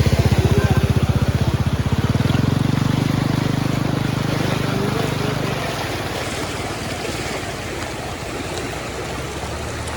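A vehicle engine running close by with a fast pulsing beat. Its note changes about two seconds in, and it fades away after about six seconds, leaving a steady rush of flowing water.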